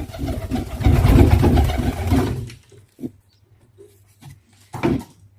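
Pigeon making a fast, rhythmic series of low calls that stops about two and a half seconds in, followed by a few short, soft sounds.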